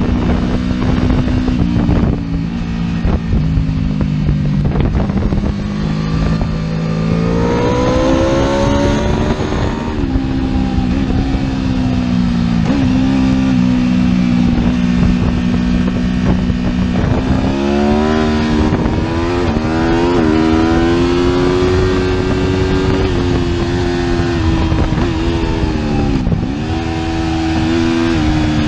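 Superbike engine running hard at speed under a steady rush of wind noise. Its pitch climbs sharply about seven seconds in and again around seventeen seconds, then dips briefly and recovers near the end.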